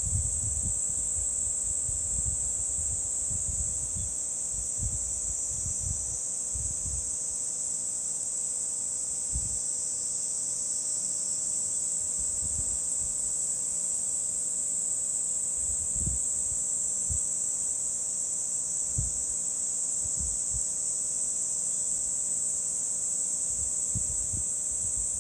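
Insects chirring steadily in one continuous high-pitched chorus, with scattered soft low thumps underneath.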